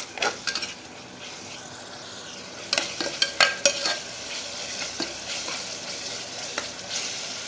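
Chopped onions and tomatoes frying in oil in a pressure cooker, sizzling steadily as they are cooked down to a soft mush. A metal spoon stirs and scrapes against the pot, with a run of sharp scrapes and clicks about three seconds in and single ones later.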